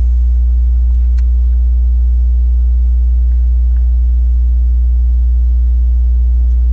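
Steady, loud low drone with several even overtones, unchanging throughout, like a boat motor running at a constant speed; a faint click about a second in.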